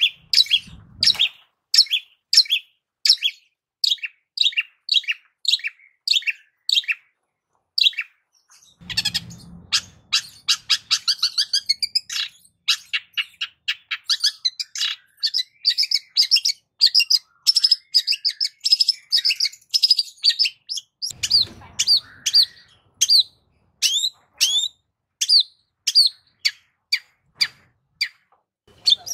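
Long-tailed shrike singing: a run of short, sharp, falling notes about two a second, which packs into a fast, dense chatter through the middle before spacing out again into separate notes.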